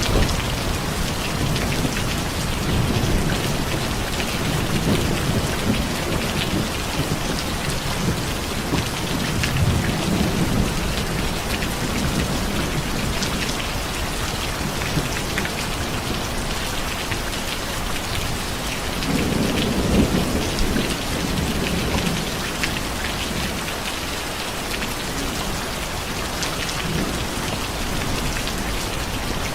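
Steady heavy rain hissing on a surface, with low rolls of thunder rising and fading several times, the strongest about twenty seconds in.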